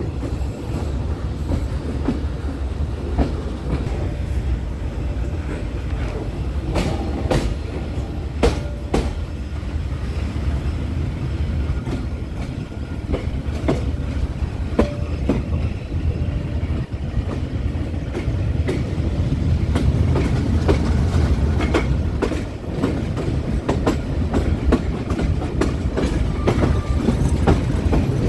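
Passenger train running on the rails, heard from aboard: a steady low rumble with irregular clicks and knocks from the wheels on the track.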